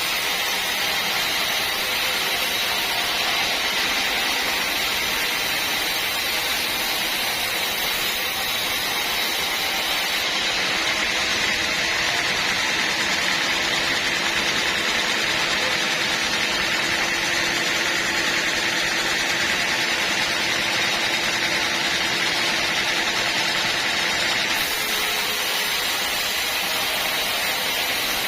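Bandsaw sawmill running steadily while sawing teak: a constant machine hum under an even, bright hiss from the band blade.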